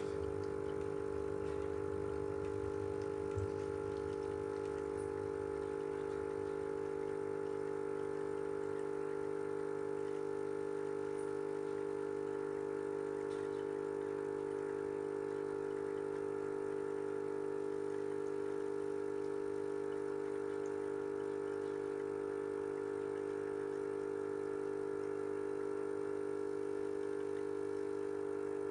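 Tommee Tippee Perfect Prep formula machine running steadily with an even hum, its pump topping up the bottle with cold water to bring the feed to drinking temperature.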